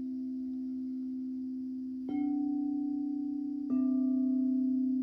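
Singing bowl ringing with a steady hum, struck again about two seconds in and once more a second and a half later, each strike making it louder and adding higher overtones, with a slow wavering beat in the tone.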